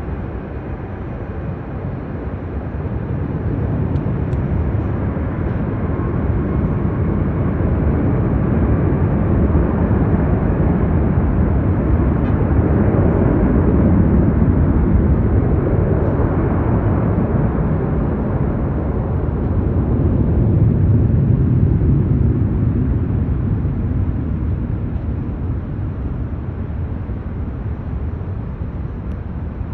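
Jet airliner engines as a plane passes, a steady noise that swells slowly to its loudest about halfway through and then gradually fades.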